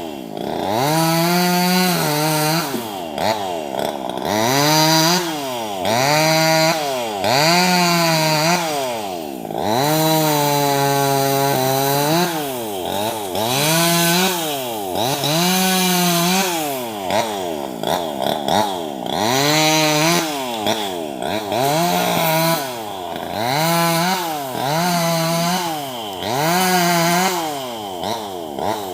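Small 258 top-handle two-stroke chainsaw cutting tree branches. The engine revs up and drops back about every two seconds, and holds steady for a couple of seconds around the middle.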